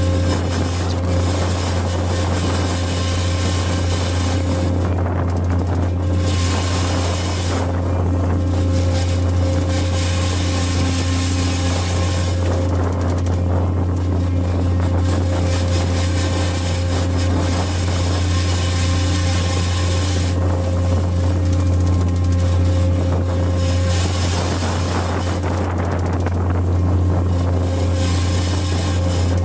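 A fishing boat's engine running steadily, a deep drone with a steady hum above it. A rushing hiss swells and fades every few seconds over it.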